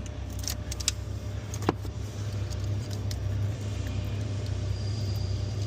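Light metallic clinks and taps from tools and engine parts being handled, with one sharper clunk that rings briefly about a second and a half in, over a steady low hum.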